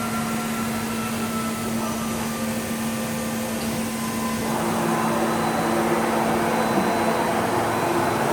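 CNC lathe running: a steady machine hum that grows louder and noisier about four and a half seconds in.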